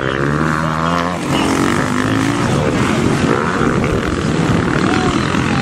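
Motocross motorcycle engines racing. For the first couple of seconds one bike's engine stands out close by, its pitch dropping and then climbing as it revs, before it blends into a mix of engines.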